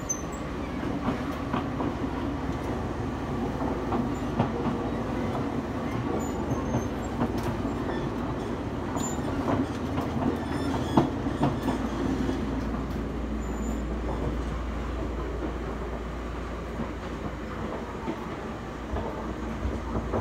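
Interior running noise of an ex-Seibu New Red Arrow electric train, now Toyama Chiho Railway's 20020 series, moving at speed on running gear inherited from the original Red Arrow: a steady rumble with irregular clicks and knocks from the wheels over the track, the low hum growing stronger in the second half.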